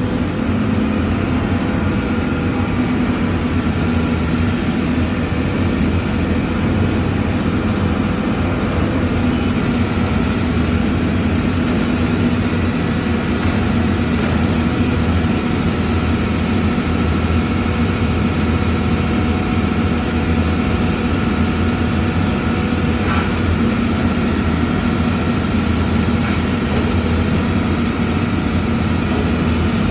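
Heavy vehicle engine idling steadily, an even low hum that holds the same speed throughout.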